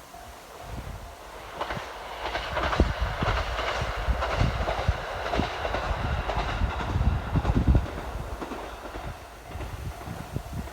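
Train running on the rails, wheels clacking over rail joints under a steady hiss with a faint high squeal, louder through the middle and easing near the end.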